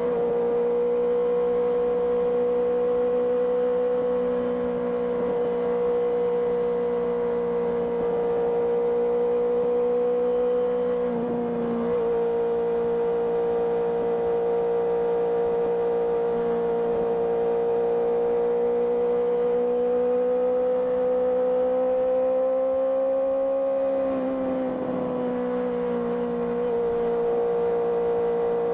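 Honda CBR650R's inline-four engine running steadily at cruising speed through an IXIL IXRace exhaust, with one steady engine note. The pitch shifts briefly twice, about a third of the way in and again near the end.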